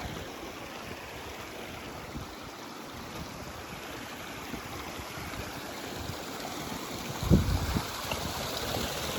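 Steady rushing outdoor noise, with a brief loud low rumble about seven seconds in.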